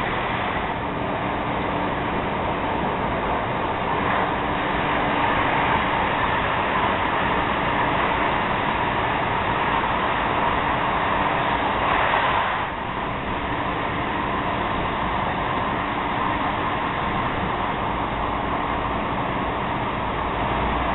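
Stockholm commuter rail X10 electric multiple unit running along the line: a steady rumble of wheels on rail with a faint motor hum. A brief louder rush comes just past the middle, then the noise settles slightly lower.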